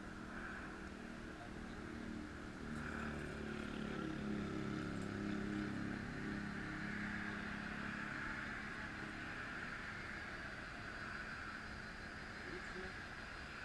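A road vehicle passing by: its engine and tyre noise grow louder, peak about halfway through, then fade away. A steady high hum runs underneath.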